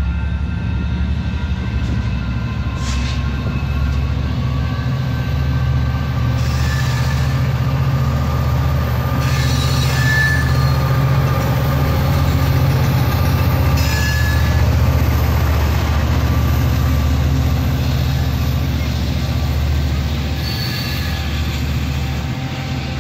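Exo commuter train passing close by, led by F59PHI diesel locomotive 1328 with bilevel coaches behind. The locomotive's diesel gives a steady, loud low rumble, with high thin wheel squeals on top that sharpen briefly twice near the middle.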